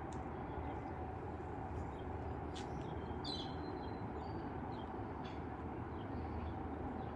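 Steady outdoor background rumble, with a brief high bird chirp about three seconds in.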